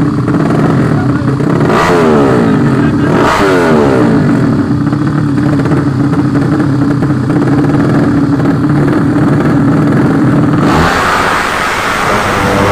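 Drag-racing motorcycle engines running loudly at a steady high note, with two brief sweeps about two and three and a half seconds in like bikes passing close by. Near the end the sound changes abruptly to a rougher, hissier noise.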